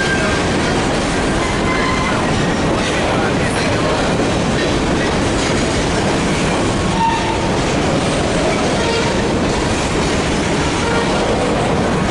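Freight train rolling past, a steady, loud rumble and clatter of wheels on rail, with a few brief, faint wheel squeals.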